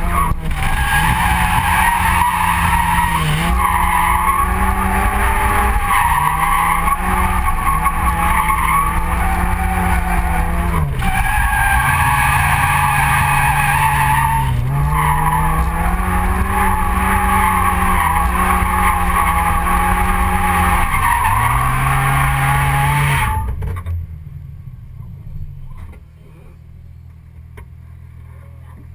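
Mazda RX-7 FC's naturally aspirated 13B rotary engine held at high revs through a drift run, its pitch dipping and climbing again every few seconds, with tyres skidding. About 23 seconds in the revs drop away and the engine falls back to a much quieter low running.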